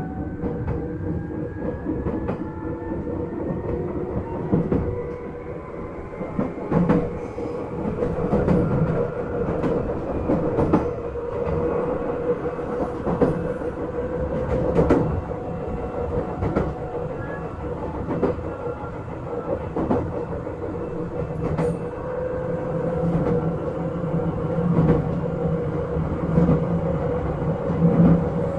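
Izukyu 8000 series electric train running: its traction motor whine rises in pitch over the first few seconds, then holds steady over the rumble of the wheels, with a clack from the rail joints now and then.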